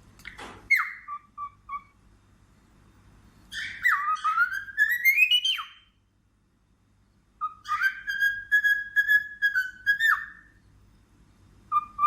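Pet parrot whistling, mimicking the whine of a power tool: a short falling whistle and a few pips, then a long rising, wavering whine, then a held warbling tone that drops away at its end.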